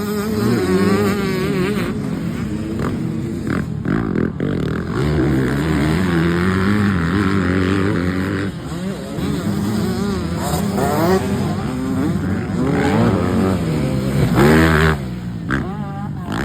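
Motocross bike engine revving up and down repeatedly as it is ridden round a track, pitch rising and falling with the throttle, loudest near the end before it suddenly backs off.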